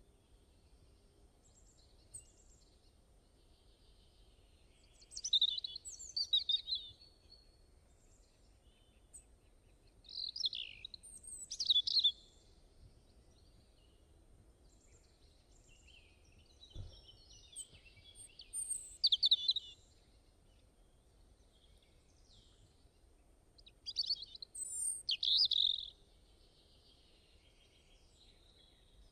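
Songbirds singing in short bursts of high, rapid chirps and trills, separated by several seconds of quiet background hiss.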